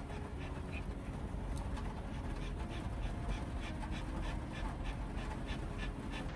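A Pomeranian dog panting in quick, rhythmic breaths.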